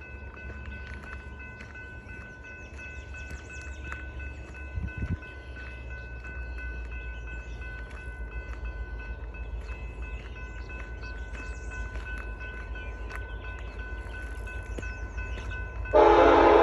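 An approaching train rumbles low and slowly grows louder, with steady high ringing tones throughout. Near the end, the locomotive's horn blasts loudly.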